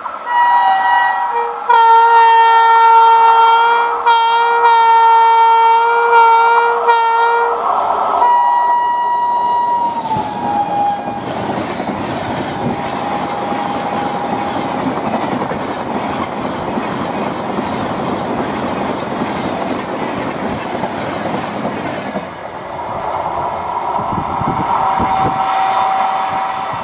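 Electric train horns sounding in repeated blasts, two tones together, then one long horn note that drops in pitch as the locomotive passes. Passenger coaches then rush past with wheel clatter, and near the end low knocks from wheels on rail joints as a train moves away.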